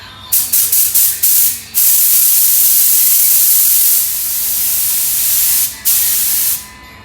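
Pressurised spray hissing: several short bursts, then a long steady spray with a brief break near the end.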